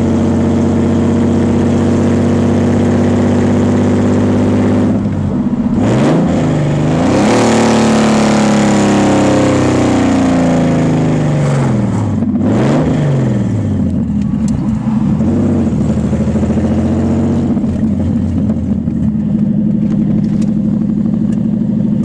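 Nissan 300ZX Z32's naturally aspirated 3.0 L V6 running with no exhaust, loud and raw. It holds steady revs, then revs up sharply about five seconds in, with the revs falling slowly away. There is a quick blip around twelve seconds before it settles back to steady running.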